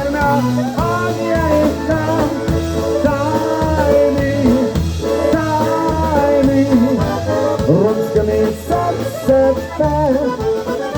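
Live polka band playing an instrumental passage of a polka: a bending melody line over a steady two-beat bass pulse.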